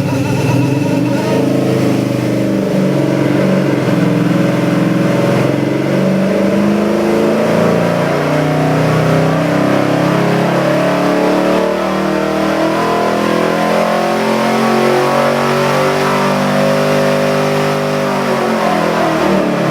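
Big-block Chevy 454 V8 crate engine running and being revved, its pitch rising and falling repeatedly, then dropping off near the end.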